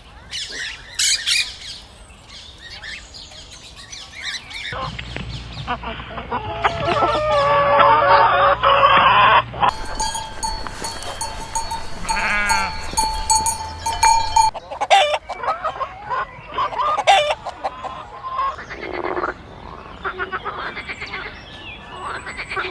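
Farm animals calling in a string of short clips cut together, with pitched bleating-type calls and abrupt changes of sound every few seconds.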